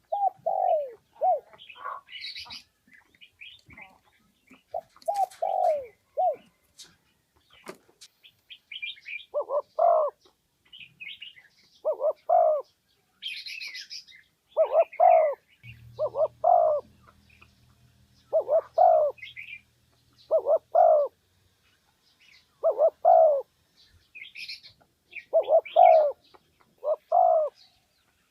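Spotted dove cooing over and over, in short phrases of two or three falling notes every one to two seconds. Higher, shorter chirps of other small birds are heard between the coos.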